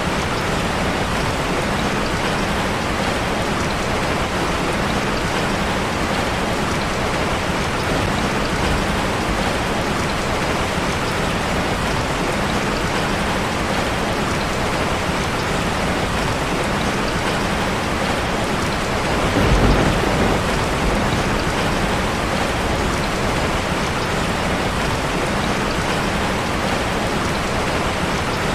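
Steady rain drumming on a metal roof. About two-thirds of the way through, a short low rumble of thunder rises above it.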